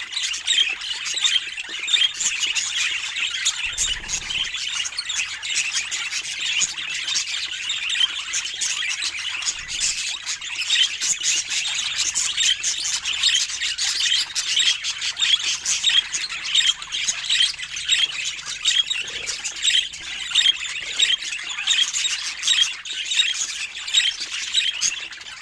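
Budgerigars chattering: a dense, unbroken run of quick, high chirps and calls, many overlapping, with no pause.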